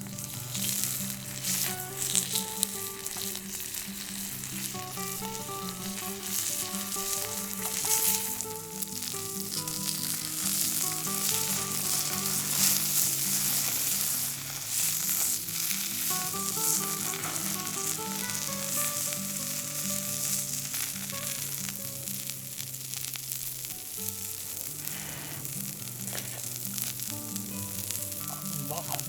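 Food frying and sizzling in a pan, a steady spitting hiss with many small pops, over soft background music with a melody and bass line.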